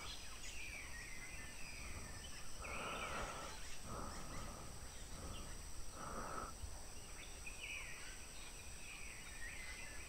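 Faint forest birdsong: short chirps and slurred whistled calls, with a few lower calls in between, which the listener takes for the Cebu black shama (siloy). A faint steady high hum runs under it.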